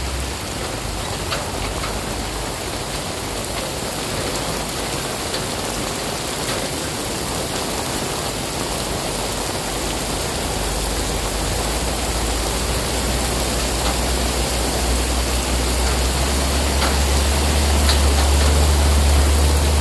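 Steady rain falling on open ground, an even hiss, with a low rumble underneath that grows stronger in the second half.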